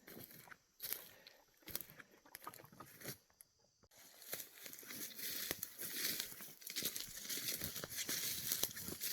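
Irregular rustling and crackling of marsh plants being brushed and stepped through, with a short quiet gap about three seconds in, then denser and louder from about four seconds on.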